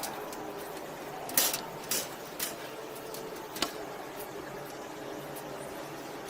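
Four sharp clicks and knocks of small hard objects being handled, the first about a second and a half in and the loudest, over a steady faint background hum.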